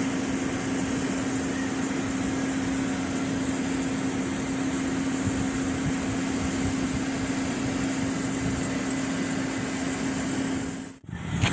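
Steady mechanical hum: a constant low drone over an even hiss, which cuts off abruptly near the end.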